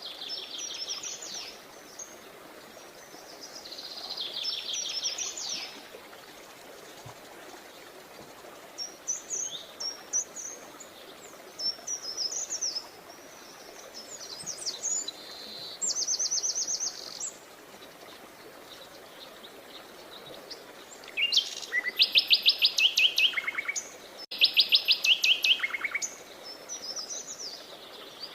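Songbirds singing: a run of separate phrases of fast, evenly repeated high trilled notes, the loudest two coming about three quarters of the way through, over a steady background hiss.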